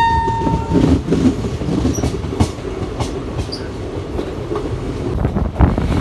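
Passenger train running along the track, rumbling and clattering with sharp knocks from the wheels. The steady note of the train's horn cuts off under a second in.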